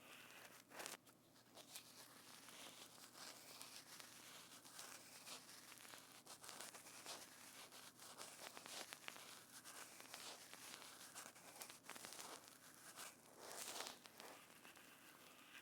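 Soft, close-miked crackling and rustling from hands working a material right at a binaural microphone, with a dense run of small clicks. Two louder crackly spells come about a second in and near the end.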